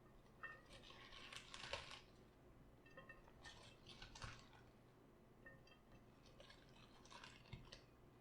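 Crisp crunching of cabbage during sauerkraut prep, in three bursts about three seconds apart.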